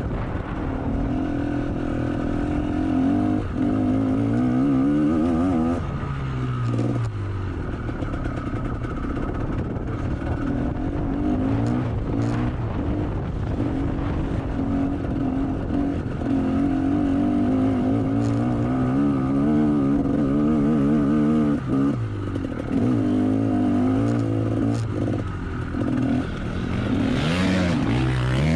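GasGas MC125 two-stroke motocross bike engine revving hard and continuously, its pitch climbing through each gear and dropping back at each shift several times over.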